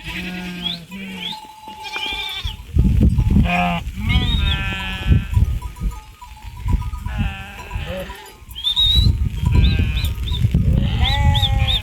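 Goats or sheep bleating over and over, many wavering calls one after another and overlapping. From about three seconds in a loud rough rumbling noise runs underneath.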